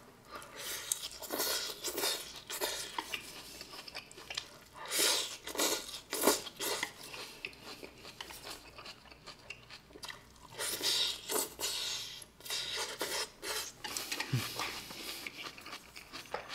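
Close-up chewing and crunching of mouthfuls of shredded lettuce and hamburger steak, in irregular bursts, with chopsticks clinking against a stainless-steel pan now and then.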